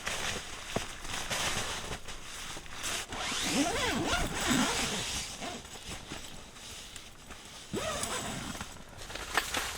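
A zipper being pulled in a few strokes, about halfway through and again near the end.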